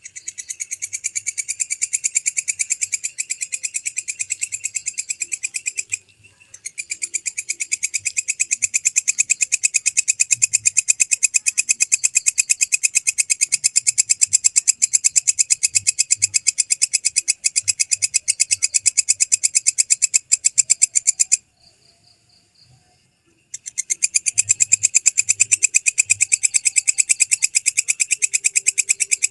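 Walang kecek (belalang kecek) katydid calling: a long, fast, high rattling trill of rapid pulses. It breaks off briefly about six seconds in and pauses for about two seconds near the three-quarter mark, then starts again.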